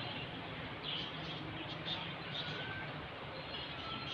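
Faint ambient noise with a low hum, broken by a few short, faint bird chirps and whistles in the background.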